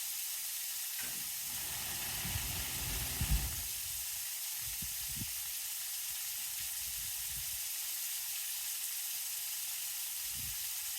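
Water running steadily from a hose into a trough, an even hiss, with a few low rumbling bumps about two to three seconds in.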